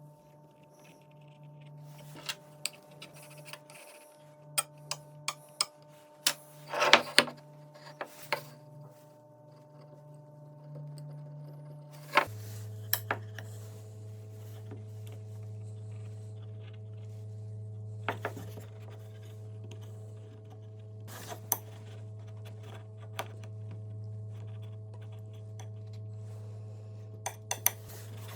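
Scattered light clicks and knocks of small hard objects being handled, over a steady hum that drops lower and gets a little louder about twelve seconds in.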